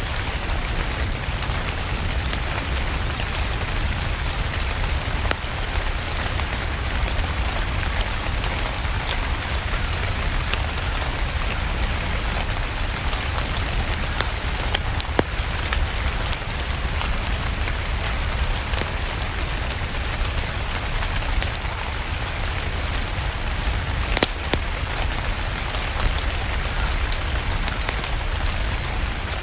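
Steady rain with a low rumble underneath and scattered sharp crackles or ticks, the loudest about halfway through and again near the end.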